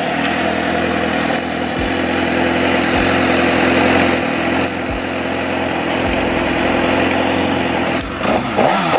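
2012 Suzuki GSX-R600's inline-four engine idling steadily just after being started, with a brief rise and fall in pitch near the end.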